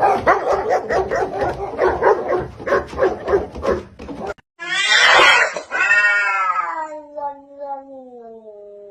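Pet animal calls: a rapid run of short, repeated calls, about four or five a second, for roughly four seconds. After a brief break comes a loud, drawn-out yowl that slides steadily down in pitch.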